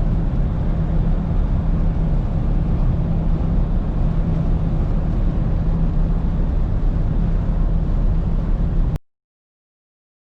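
Steady low engine drone with a constant hum and a dense rumbling noise, as of a vehicle under way; about nine seconds in it cuts off to dead silence.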